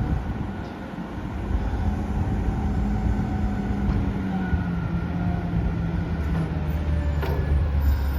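Engine of a Peterbilt 320 front-loader garbage truck running steadily. Its low engine note drifts slightly lower midway, and a heavier low rumble comes in over the last couple of seconds.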